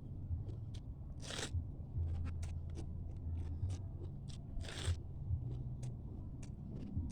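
A person chewing crunchy food close to the microphone. There are two loud crunches, about a second in and again near five seconds, with smaller clicks of chewing between them and a steady low hum underneath.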